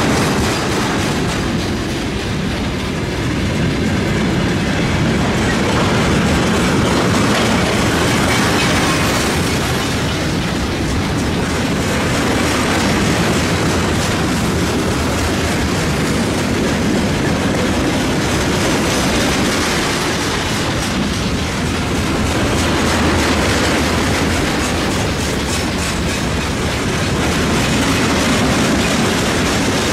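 Freight train of tank wagons rolling steadily past, its wheels clattering over the rail joints with a continuous rumble.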